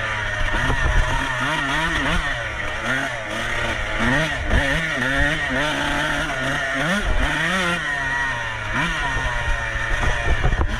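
Dirt bike engine racing, its pitch rising and falling every second or so as the throttle is opened and closed.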